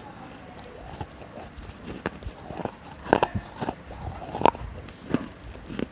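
Close-miked chewing and biting of crunchy food: irregular sharp crunches with a person's mouth right at a clip-on microphone, loudest a little after 3 s and about 4.5 s in.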